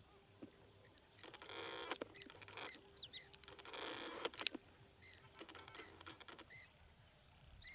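A rosy starling flock sweeping past in waves: three rushes of massed wingbeats, each about a second long, with a few short chirps in between.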